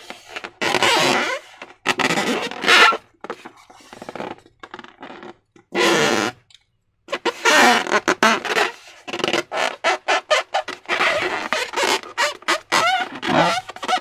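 Slime being squished and squeezed, making wet squelching sounds in irregular bursts.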